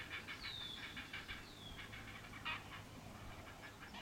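Large nesting birds calling: a faint, rapid run of short chattering calls, with two falling squeals in the first two seconds and a sharper call about halfway through.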